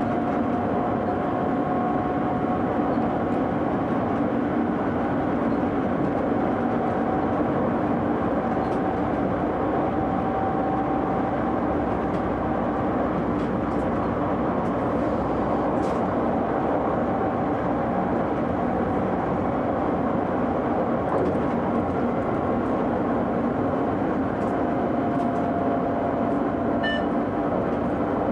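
Electric train running steadily at speed, heard from inside the driver's cab: a continuous rumble of wheels on rail with faint steady motor tones over it. A brief high tone sounds near the end.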